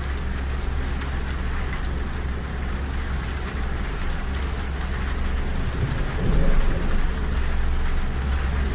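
Steady rain pattering on a train window over the low, constant rumble of a moving railway carriage, with a louder swell of low rumble about six seconds in.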